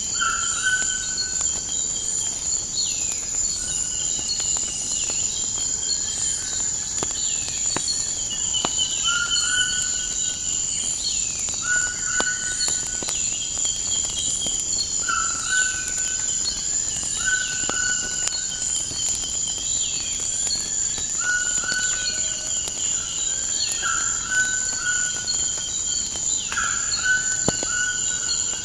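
A steady, high-pitched chorus of crickets trills throughout. Over it, birds repeat short calls every second or two, along with some falling whistles. Scattered sharp crackles, like a wood fire, come through now and then.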